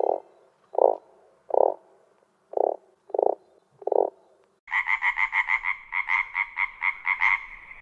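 Frog croaking: six low croaks spaced under a second apart, then from about five seconds in a faster, higher-pitched pulsing croak, about five pulses a second.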